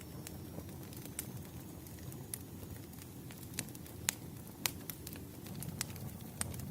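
Wood fire crackling: irregular sharp pops and snaps, two louder ones a little past the middle, over a steady low rumble.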